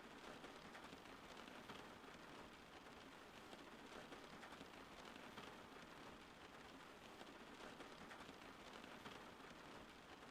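Faint, steady rain falling, an even hiss of drops with no thunder.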